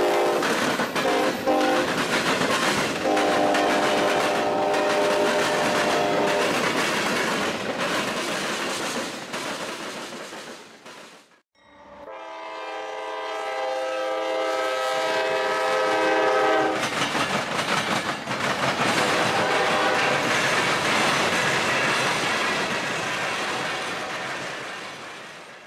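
Freight trains passing: a Norfolk Southern train's cars rolling and clattering over the rails while a train horn sounds for about three seconds. After a short break, a CSX freight locomotive approaches blowing its horn for about five seconds, then its open hopper cars rumble and clatter past.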